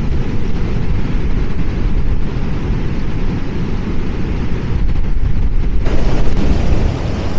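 Storm wind gusting hard against the microphone in a heavy low rumble, with rough sea surf hissing behind it. About six seconds in the sound suddenly opens up and the surf comes through more clearly.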